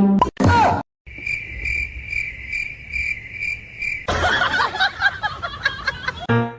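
Insect chirping, likely a cricket: a steady high-pitched trill that pulses about two and a half times a second for about three seconds. A stretch of noisy, jumbled sound follows it.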